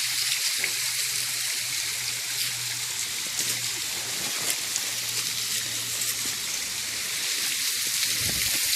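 Steady rushing hiss of water falling and running over bedrock at a small waterfall, with a few faint clicks.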